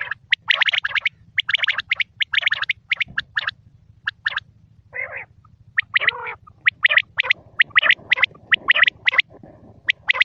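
Quail calling: rapid runs of short, sharp, high notes, several a second, in bursts with brief gaps. Two lower, longer calls break in about five and six seconds in.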